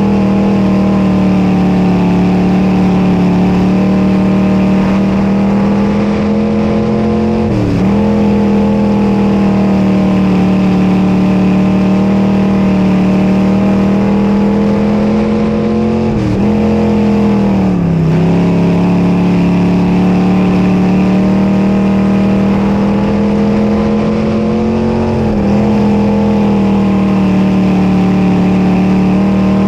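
Dirt modified race car's engine running hard under sustained throttle, its pitch dipping briefly and climbing back about every eight to nine seconds as it comes off and back onto the power around the track.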